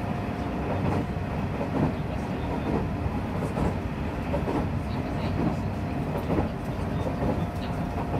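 Nishitetsu electric commuter train running at speed, heard from inside the car: a steady rumble of wheels on rail with repeated clattering knocks from the track. A faint thin whine is there at the start, fades away, and comes back near the end.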